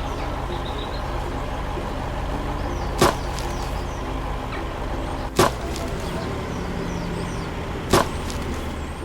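Tractor engine running steadily, with three sharp knocks about two and a half seconds apart.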